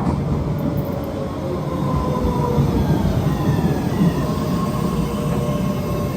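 An MBTA subway train running past with a heavy steady rumble, overlaid with faint whining tones that slowly shift in pitch.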